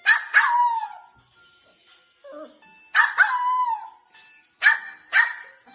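Lhasa Apso puppy howling at a mobile phone ringtone. It gives two long howls, each about a second long and falling in pitch, then two short barks near the end, over the ringtone's chiming melody.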